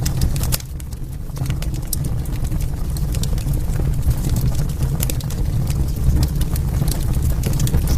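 Wood fire burning in a fireplace: irregular sharp crackles and pops over a steady low rumble of the flames, briefly quieter about half a second in.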